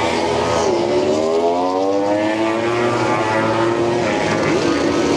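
MotoGP racing motorcycle engines at high revs, pitch rising as the bikes accelerate and then holding, with a drop in pitch about four and a half seconds in.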